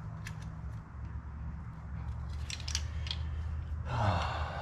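Small metallic clicks and taps of a car heater control unit's levers and knobs being worked by hand; the knobs bind against each other. A steady low hum sits underneath, and a short louder rubbing noise comes near the end.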